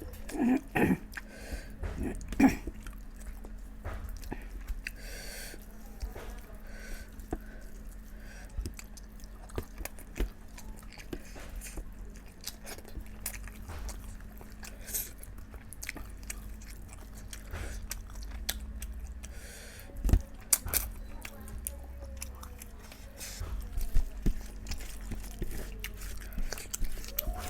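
A person chewing and biting food close to the microphone: many small wet mouth clicks, with louder bites near the start and twice in the last third.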